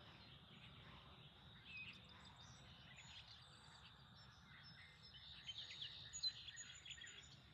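Faint birdsong: scattered short, high chirps over a quiet outdoor hiss, busier in the second half.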